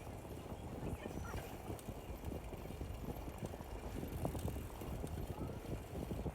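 Horse hooves clip-clopping on pavement, irregular knocks over the steady low rumble of a bicycle ride.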